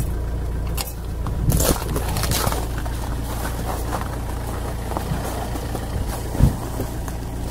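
Car engine running steadily, with scattered crunching and scraping noises and a single knock about six and a half seconds in.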